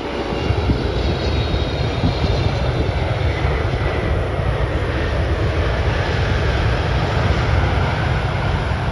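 Jet airliner's engines running loud and steady as the aircraft passes close by on the runway: a deep rumble with a faint high whine over it.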